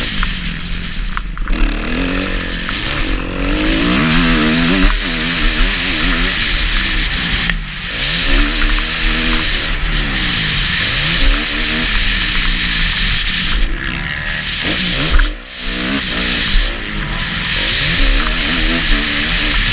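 Kawasaki KX250F four-stroke single-cylinder motocross bike being ridden hard, its engine revving up and falling back again and again as the throttle opens and closes. The engine briefly cuts away about fifteen seconds in, then picks up again.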